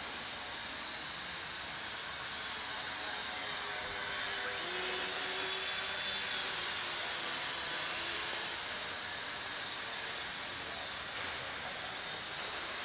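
Two small electric motors and propellers of an indoor model warbird whining in flight, the pitch wavering up and down as the plane passes, a little louder in the middle.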